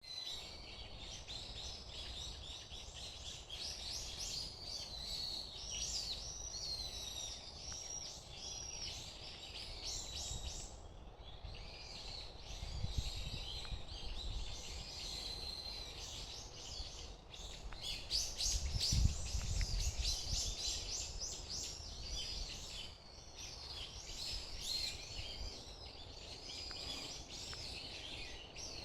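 Many small birds chirping and singing at once, a continuous chorus of overlapping tweets and warbles. A low rumble comes twice, near the middle and about two-thirds through.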